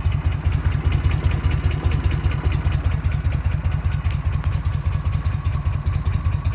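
Harley-Davidson Shovelhead V-twin engine idling with a steady, even beat, ticking over smoothly after work on its carburettor.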